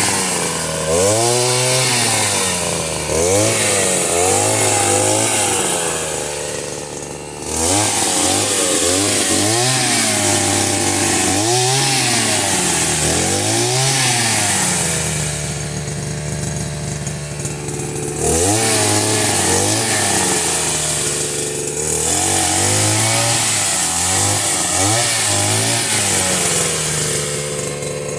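Chainsaw engine revving up and down over and over, with a few stretches held at a steady pitch for several seconds.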